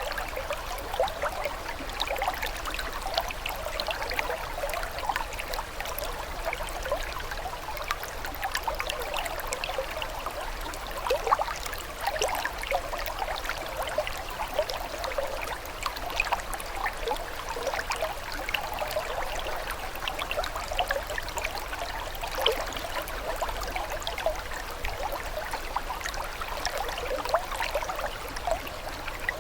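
Water flowing and trickling steadily, like a small stream, with a constant patter of small bubbling splashes.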